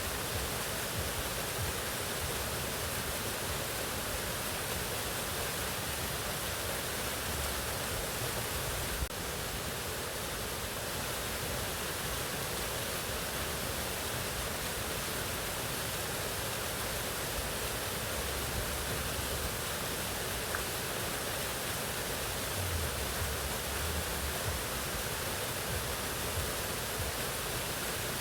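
Steady, even rush of a mountain waterfall, with one brief click about nine seconds in.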